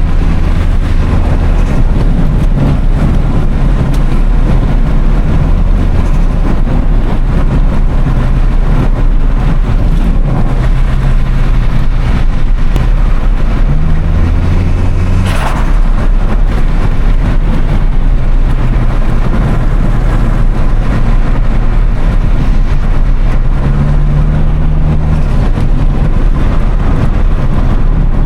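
Toyota Starlet Glanza V's turbocharged four-cylinder engine driving under throttle. The engine note steps up and down several times as the revs change, and about halfway through there is one brief sharp burst as the throttle lifts, typical of turbo flutter.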